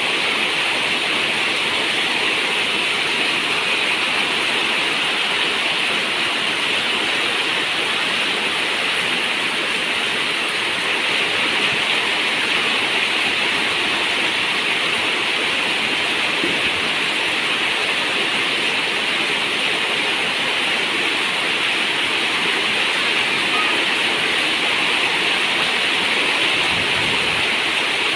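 Steady rain on a zinc roof, a dense even hiss that holds at one level throughout.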